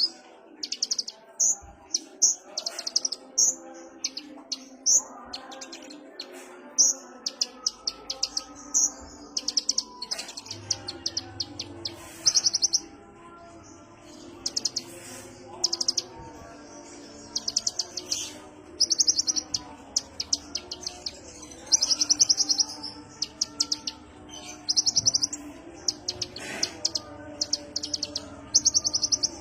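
Kolibri ninja sunbird singing in a relaxed, chattering way: short, rapid, high-pitched trills repeated every second or so, some bursts longer than others, with no real gap.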